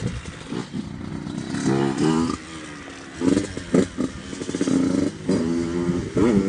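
Dirt bike engine revving in several bursts, its pitch rising and falling with the throttle.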